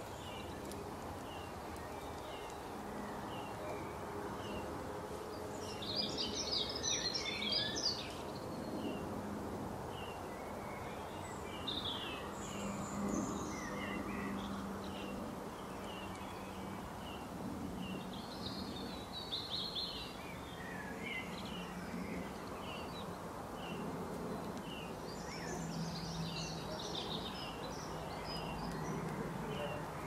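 Birdsong over steady background noise: one bird repeats a short high note about once a second, and a few times a burst of faster, more varied song comes in. There is no woodpecker drumming or pecking.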